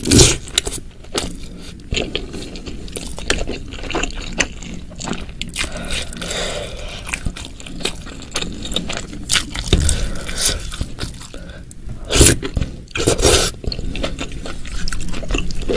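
Close-miked chewing of mushrooms coated in thick spicy sauce, with wet smacking and squishing mouth noises. A few louder sharp sounds come at the very start and twice near the end.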